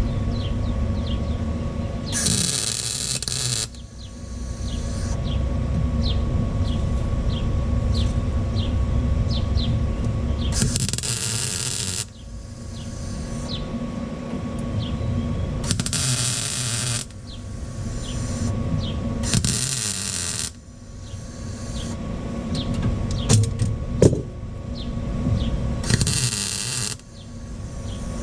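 MIG welder tack-welding a steel patch panel onto a truck's rocker/cab corner. It makes about five separate crackling bursts, each a second or so long, over a steady low running hum.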